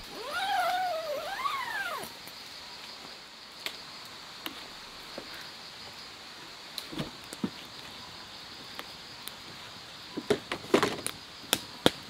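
An animal's pitched, meow-like call of about two seconds at the start: it slides down, then rises and falls again. Steady insect chirring runs underneath, and a few sharp crackles and knocks come near the end.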